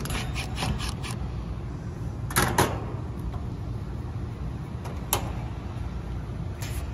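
A few sharp clicks and knocks of hands and tools working on the fan motor's wiring, the loudest a quick double about two and a half seconds in, over a steady low rumble.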